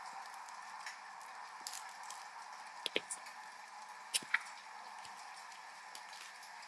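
Steady hiss of rain with a wood fire crackling, scattered small snaps and a few louder pops in pairs about three and four seconds in.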